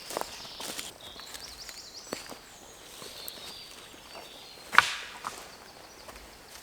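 Footsteps and rustling on woodland leaf litter, with scattered twig snaps and a sharp knock about five seconds in.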